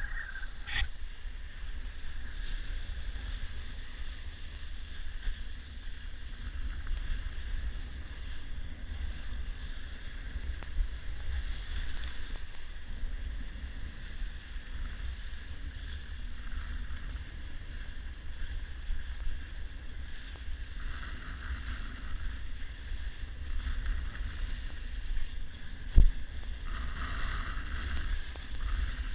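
Wind buffeting the microphone: a steady low rumble, with one sharp knock about 26 seconds in.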